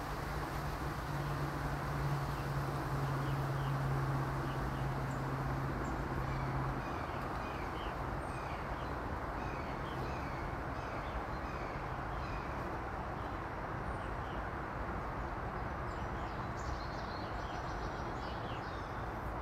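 Woodland birds chirping: a long run of short, high notes about twice a second, busier near the end, over a steady background hiss. A low steady hum cuts off about seven seconds in.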